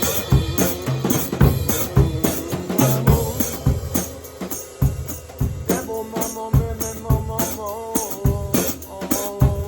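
Drums played in a fast, busy improvised pattern of strikes. About halfway through, a long wordless sung tone joins them, bending in pitch a little before settling.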